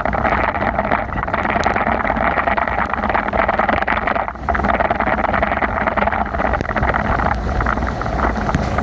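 Steady rushing noise of a bicycle ride in heavy rain: wet tyres on the road, with rain and wind on the microphone.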